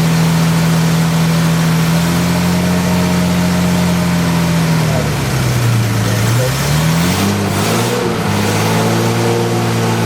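Freshly rebuilt Jaguar E-Type 5.3-litre V12 running steadily just after its first start. About halfway through the revs sag, then pick back up and settle at a slightly lower, steady speed.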